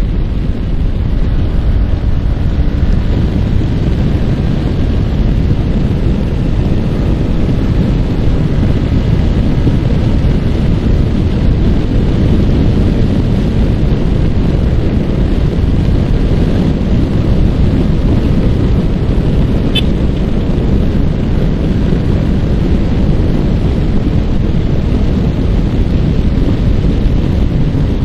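Heavy wind buffeting on the microphone over a Yamaha R15 motorcycle's single-cylinder engine running at a steady cruising speed. The rush stays even throughout, with no gear changes or revving.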